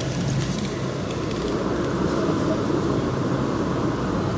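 Steady running rumble of a Metro-North M8 electric train heard from inside the passenger car while under way, with a few faint clicks near the start.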